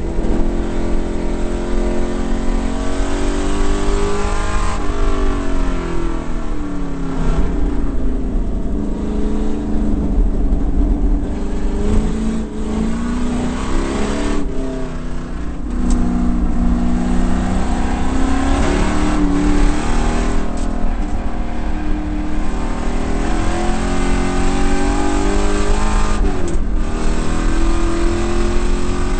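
A 1968 Ford Mustang race car's V8 engine heard from inside the cabin under racing load, its revs climbing and falling over and over through the corners and gear changes.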